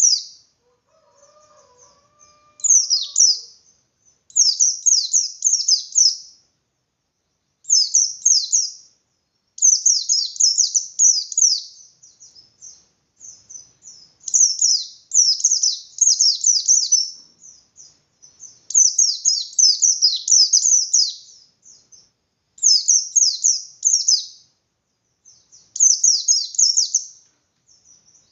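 Pleci Bustomi (a white-eye, Zosterops) singing hard in the 'ngalas' fighting style that keepers call gacor: about nine bursts of rapid, high chattering notes. Each burst lasts one to three seconds, with short pauses between them.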